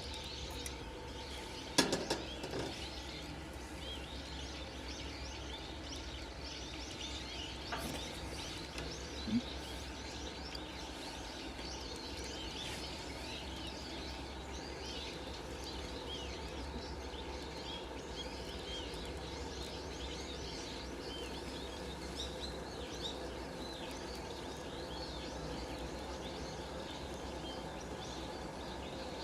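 Small birds chirping continually, with a few sharp knocks or clicks about 2 s and 9 s in.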